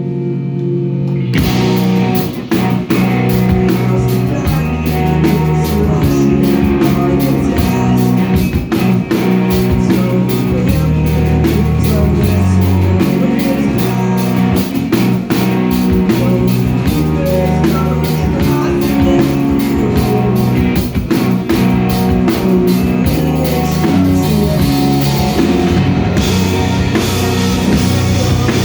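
Live rock band playing an instrumental passage: guitar alone at first, then about a second in the drums, bass and guitars all come in together and play on with steady cymbal hits.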